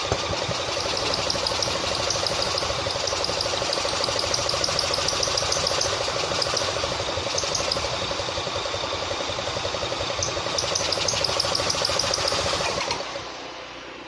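Old tractor engine, freed from being stuck, running steadily with irregular light ticking over it. The sound drops off sharply about thirteen seconds in.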